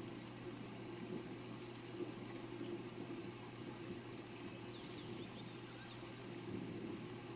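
Steady rain falling, with faint, brief bird chirps now and then.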